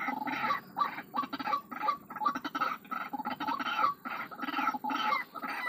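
White-breasted waterhen calling: a fast, unbroken run of repeated harsh notes, several per second.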